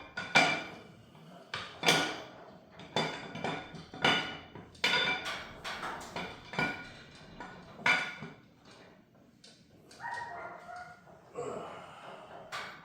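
A dog barking repeatedly, short sharp barks about once or twice a second, fainter in the last few seconds.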